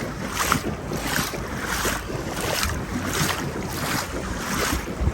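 Legs wading through knee-deep floodwater, a regular sloshing swish with each stride, with wind buffeting the microphone underneath.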